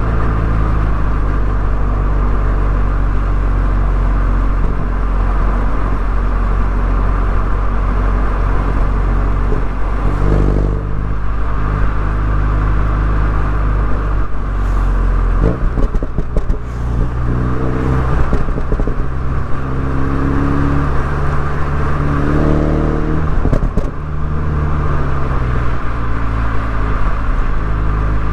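Mini Cooper S engine and exhaust under way, the engine note rising and dropping several times as the revs change.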